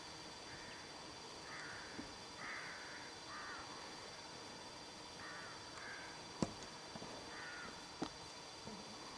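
Birds calling, short harsh calls repeated in small groups. Two sharp knocks about a second and a half apart, past the middle, are the loudest sounds.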